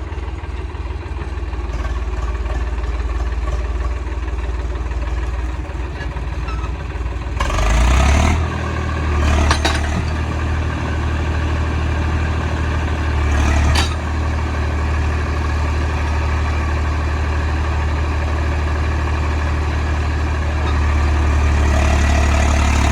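Tractor diesel engine running steadily. About eight seconds in it picks up revs and runs louder, with a few short hissing or rattling bursts over it.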